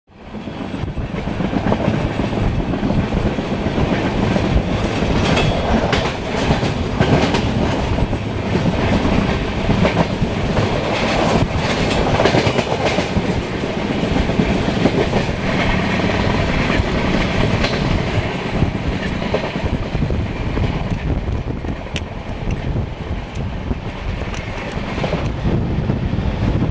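LHB passenger train running along the line, heard from aboard: a steady rumble of wheels on rail with scattered clicks and clatter, fading in at the start.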